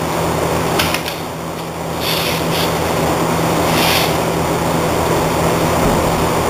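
Steady machine hum and noise, with a few short hisses about one, two and a half and four seconds in.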